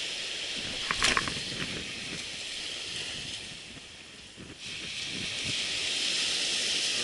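Strong wind on a surf beach, with waves, making a steady hiss. A brief sharp sound with a short ringing tone comes about a second in. The hiss eases briefly around four seconds and then returns.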